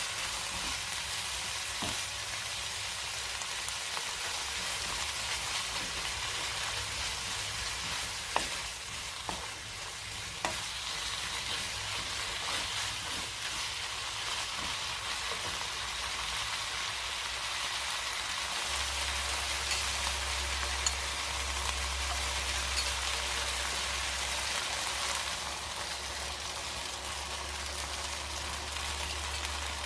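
Food sizzling as it fries in a pan, a steady crackling hiss, with a few sharp clicks of a utensil against the pan. A low hum comes in about two-thirds of the way through.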